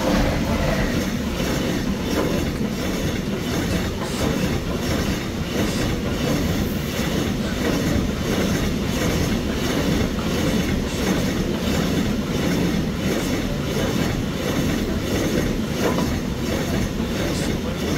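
Freight train of hopper wagons, hauled by an electric locomotive, passing at close range: a loud, steady rumble of steel wheels on the rails with an evenly repeating clatter. The noise jumps up suddenly as the locomotive goes by at the start.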